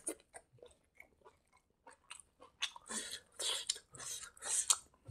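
Close-miked chewing of a mouthful of hand-eaten rice and egg curry: faint mouth clicks at first, then a run of wet chewing from about halfway in.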